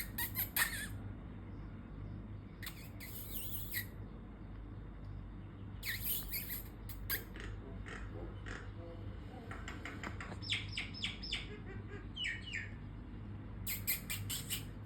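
A bird calling in short clusters of sharp chirps and squawks, some sliding down in pitch, with pauses of a few seconds between the clusters.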